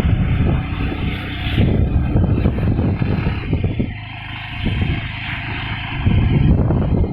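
Motorcycle engine running while riding, its sound dipping a little about four seconds in.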